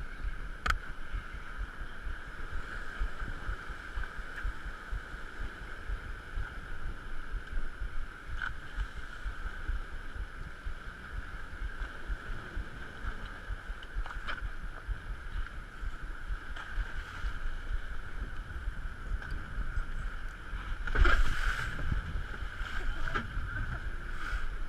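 Wind and water noise aboard a small fishing boat at sea, with a steady hum and a constant low rumble of wind on the microphone. There are a few sharp knocks, and a louder rush of sound comes about three-quarters of the way through.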